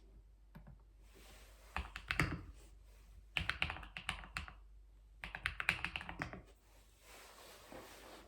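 Keyboard typing in three quick flurries of keystrokes, each a second or so long, with short pauses between them.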